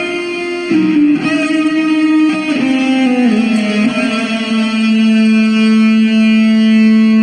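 Electric guitar playing a lead line that steps down through several single notes, then holds one long sustained note for the last couple of seconds.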